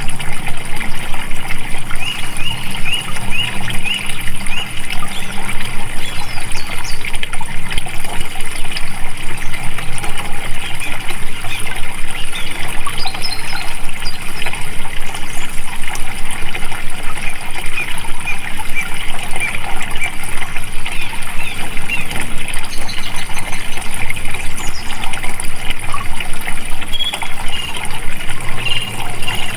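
Water flowing steadily, like a stream, with small birds chirping over it throughout.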